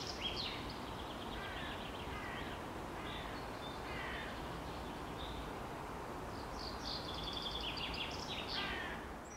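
Birds calling and chirping in short trills and notes over a faint steady outdoor hiss, with a busier flurry of calls near the end.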